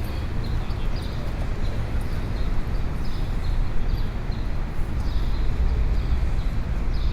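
City street ambience: a steady low rumble of traffic, with a run of light, repeated clicks above it.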